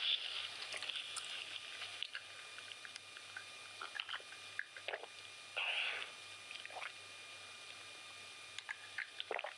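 Close-miked eating sounds from a mouthful of chicken biryani: wet chewing and lip smacks with scattered small clicks. There are brief louder crackly bursts at the start and about six seconds in, and a quieter pause around seven to eight seconds.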